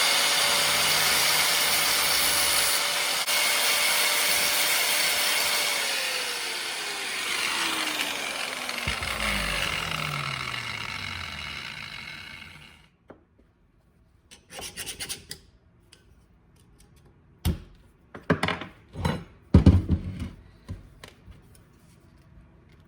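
Angle grinder with a cutoff wheel grinding down a weld bead on the dumbbell, the motor whine steady for about six seconds and then sliding down as it winds off, the grinding noise fading out about halfway through. A few light knocks and clinks follow.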